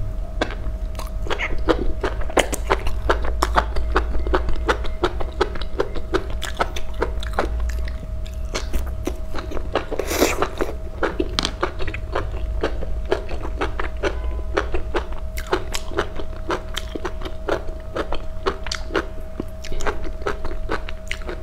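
Close-miked chewing of fried enoki mushrooms, a dense run of small wet crunches and crisp clicks with a louder crunch about halfway through. A steady low hum and a faint steady tone run underneath.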